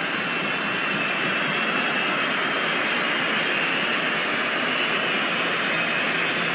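Large stadium crowd making a steady, loud roar of massed voices, with no breaks or single standout sounds.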